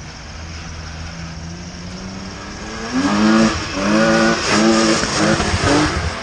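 A car engine running at a low, steady note, then from about three seconds in revved hard again and again, its pitch rising and dropping several times in quick succession.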